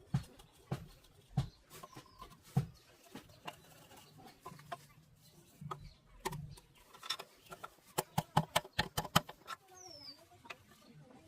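A series of sharp clicks and knocks, with a quick run of them about eight seconds in, and a bird's brief call near the end.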